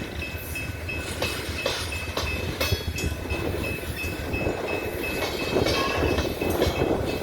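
Coal train cars rolling over the rails: a steady low rumble, with irregular clanks and clacks from the wheels and couplers. A faint high ringing note repeats about four times a second throughout.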